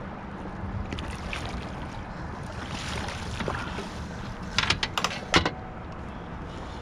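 Steady wind and water noise around a small fishing boat, with a quick run of four or five sharp knocks about five seconds in, the last the loudest.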